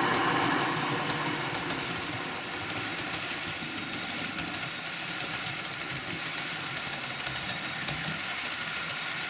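Model train running along the layout track: a steady running noise with faint scattered clicks, loudest at first and easing off in the first couple of seconds.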